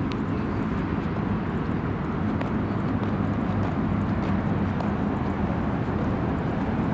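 A car engine idling steadily: an even low rumble with no revving.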